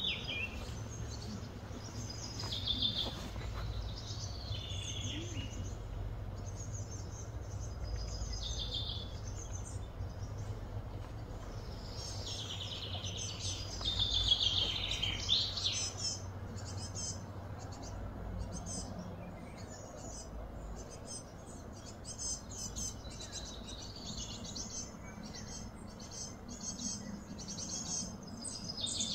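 Birds chirping and singing repeatedly in short calls over a steady low hum of outdoor background noise; the calling is busiest about halfway through.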